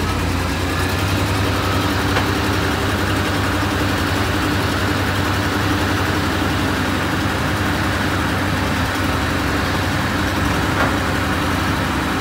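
Heavy truck diesel engine running steadily, a low even hum with no changes in speed.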